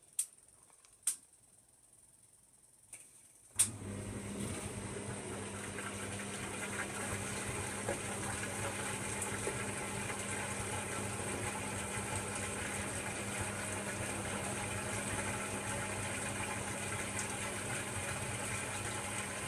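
A Hoover Logic washing machine pausing between stages: a few sharp relay clicks, then about three and a half seconds in a steady hum with rushing water starts, as the machine's pump or water valve comes on.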